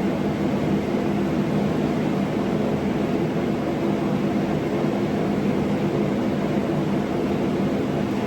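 Steady hum of running shop machinery, a low droning tone over an even hiss.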